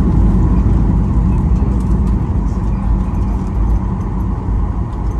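Inside a Boeing 737-800's cabin while it taxis: the steady low rumble of its CFM56 engines at idle thrust and the wheels rolling, with a faint steady hum over it.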